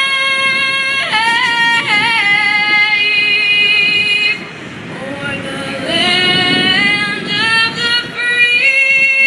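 A woman singing a national anthem solo, holding long notes with vibrato.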